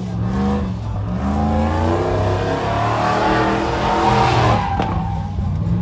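Engine of a truck fitted with a ProCharger supercharger revving, with a whine that climbs in pitch from about one to four and a half seconds in, then drops back.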